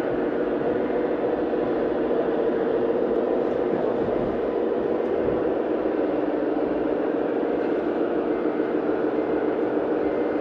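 A radio-controlled model vehicle's motor running steadily: an even whirring with a few low hum tones that shift slightly in pitch about halfway through.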